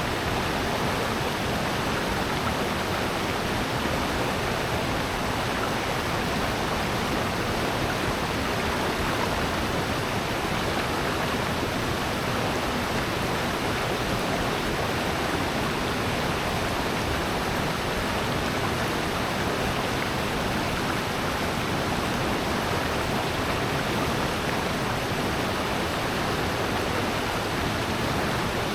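Rushing water of a valley stream and waterfall: a steady, even rush with no pauses or changes.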